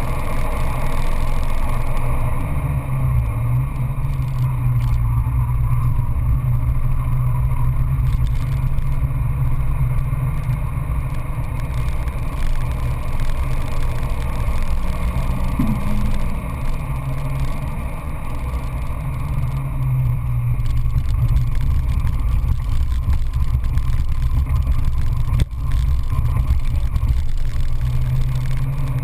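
Peugeot 206 GTI S16's 2.0-litre 16-valve four-cylinder engine pulling hard through a fast lap, heard from inside the cabin with road and wind noise. The engine note rises and falls as the driver works through the gears and corners.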